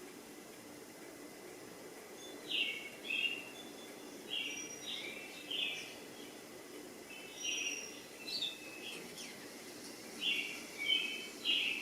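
A bird chirping, short calls in pairs or small groups every second or two, over a steady background hiss.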